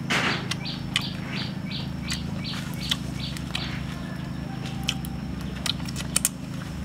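A bird chirping repeatedly, short calls about three a second over the first few seconds, with scattered sharp clicks of a knife against a wire grill while grilled meat is cut. A brief burst of noise just at the start is the loudest moment.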